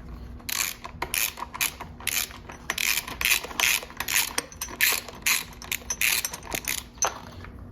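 Hand ratchet wrench clicking in quick back-and-forth strokes, about three a second, as it tightens down bolts.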